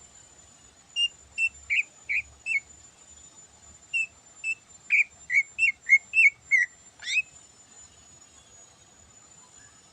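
Cucak ijo (green leafbird) singing: a run of five short, loud whistled notes, then a faster run of about eight, ending in one quick rising whistle about seven seconds in.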